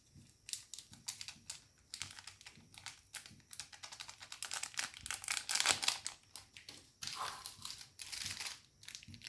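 Rapid, irregular light clicks and taps mixed with bursts of crinkling, the sound of hands working with utensils and packaging while preparing food.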